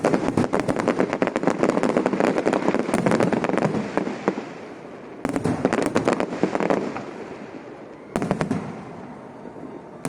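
Aerial fireworks crackling in dense, rapid volleys of overlapping bangs. A long run lasts about four seconds, followed by shorter volleys about five and eight seconds in.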